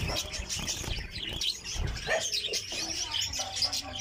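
Many small cage birds chirping in an aviary: short, high calls overlapping continuously, with a few low bumps.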